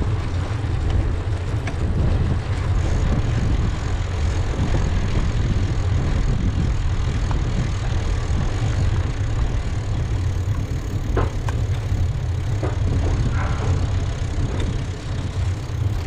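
Steady low rumble of wind buffeting the microphone and road noise during a bicycle ride, with a few faint short squeaks or chirps between about eleven and fourteen seconds in.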